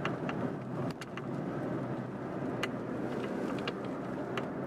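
A car being driven, its steady engine and road noise heard from inside the cabin, with a few faint clicks.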